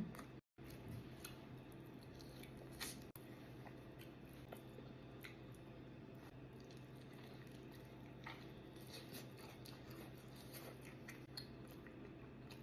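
Faint mouth sounds of eating seafood: quiet chewing with scattered small clicks and squishes, over a steady low hum.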